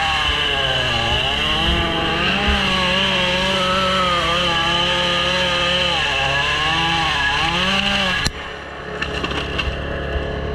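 Gasoline chainsaw running at high revs, its pitch dipping several times as it bogs down in cuts through wood. About eight seconds in, the sound changes abruptly to a quieter engine sound with scattered crackles.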